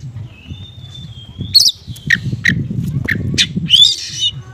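Small songbirds calling. A thin, steady whistle comes first, then a run of about five sharp chirps, and a louder, more complex call near the end, over a low background rumble.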